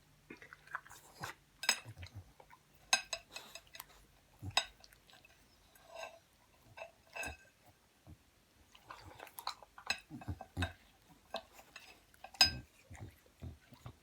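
Scattered light clicks and clinks of a dish being handled, with the loudest knock about twelve seconds in.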